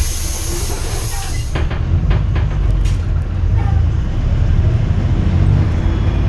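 Hyundai New Super Aerocity city bus's Euro 6 diesel engine running with a deep rumble, under a loud air hiss from the bus's pneumatics that cuts off about a second and a half in. After it the engine rumble swells.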